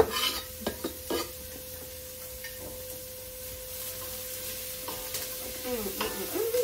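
Onions sizzling in a soup pot, with a few sharp knocks in the first second or so.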